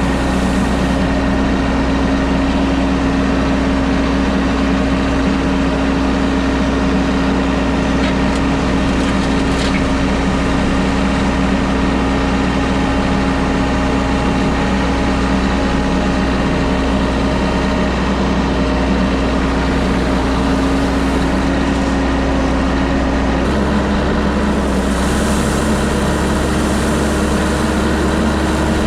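Diesel engine of a compact Kubota tractor running steadily while it spreads stone from its loader bucket, with a small step in engine speed about 23 seconds in.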